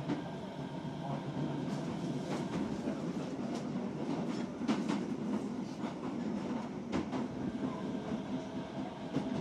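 Osaka Metro 66 series commuter train running along the track, heard from inside the car: a steady rumble of wheels on rail, broken by irregularly spaced sharp clicks from the wheels and track.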